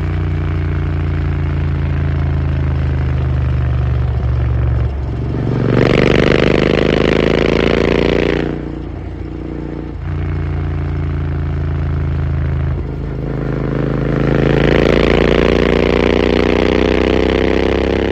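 Royal Enfield Continental GT 650's 648 cc parallel-twin running through an aftermarket AEW exhaust. It runs steadily, then its note climbs twice, held for a few seconds each time before dropping back.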